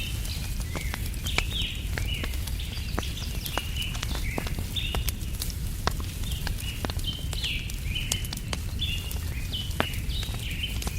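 Wood fire crackling, with scattered sharp pops over a low rumble, while small birds chirp continually.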